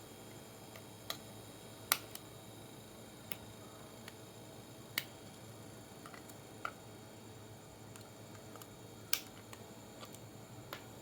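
Light, sharp clicks and taps, about eight at irregular intervals, over a faint steady hiss.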